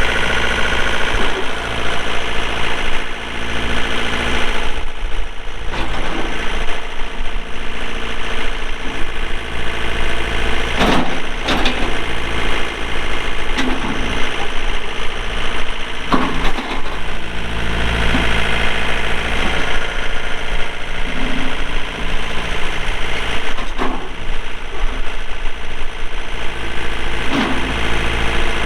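The 48 HP Yanmar diesel engine of a John Deere 4320 compact tractor running steadily, with a few sharp clunks scattered through it.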